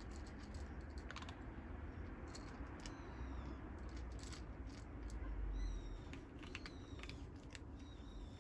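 Kittens eating dry cat food, a quick irregular run of crunching clicks, with short high chirps that fall in pitch several times from about three seconds in.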